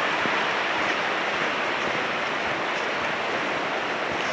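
Steady rush of flowing river water over rocks, an even hiss with no change in level.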